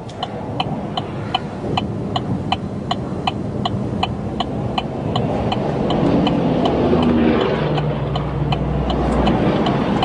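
Vehicle indicator flasher ticking steadily, about two and a half clicks a second, over engine and road noise that grows louder and deeper about six seconds in.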